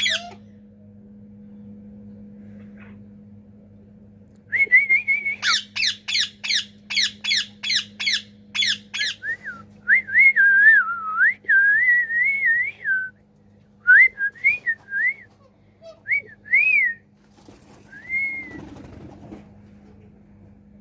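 Pet bird calling: a quick run of about nine sharp chirps, then wavering, warbling whistles in short phrases.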